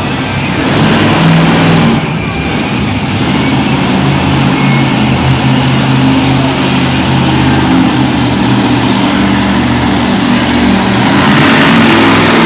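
Monster truck engine running loud at high revs, its pitch holding fairly steady and growing louder about a second in and again near the end.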